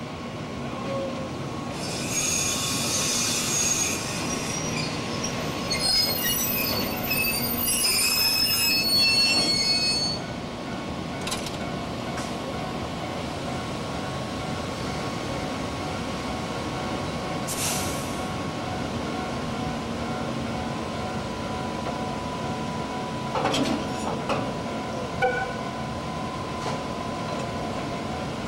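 A freight train being shunted by an electric locomotive moves slowly, its wagon wheels squealing shrilly on the rails for about the first ten seconds. After that comes a steady hum with a few clicks, a brief hiss, and clanks near the end.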